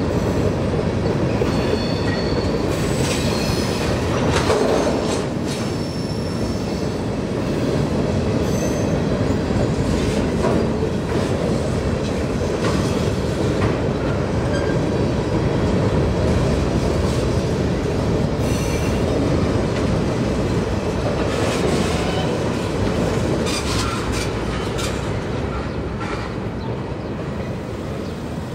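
Wheeling & Lake Erie freight train cars rolling past, a steady rumble of steel wheels on rail with scattered clacks and brief high-pitched wheel squeals several times.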